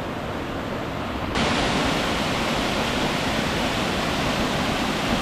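Waterfall rushing steadily, jumping abruptly louder and brighter about a second and a half in.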